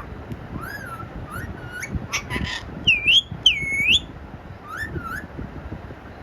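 Parrot whistling: several short rising whistles, then two loud swooping whistles that dip and rise again about three seconds in, and two more short whistles near the end.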